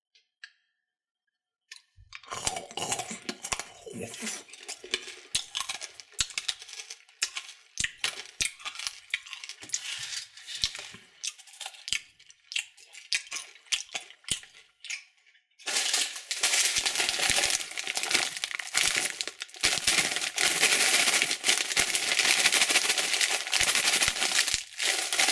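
Plastic candy wrappers crinkling and crackling as they are handled and opened, starting about two seconds in with scattered crackles, then growing into dense, continuous crinkling about halfway through.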